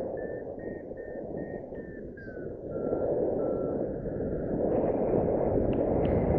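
Paragliding variometer beeping in short tones that step up in pitch and then back down, the climb tone of a glider in lift, weakening until the beeps stop about four seconds in. Heavy wind rushes over the microphone throughout.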